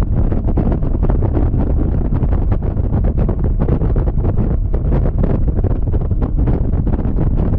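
Wind buffeting the microphone of a GoPro Hero 7 Black camera on a Yamaha XMAX scooter moving at highway speed: a loud, steady rumble, heaviest at the low end, with a rapid flutter through it.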